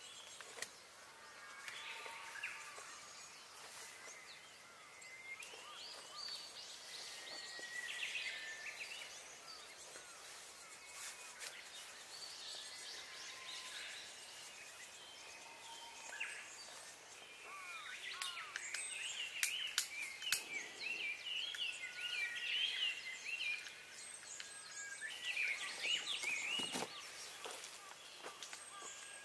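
Wild birds chirping and singing over a faint steady outdoor hiss, the calls thicker in the second half, with a few sharp clicks about two-thirds of the way through.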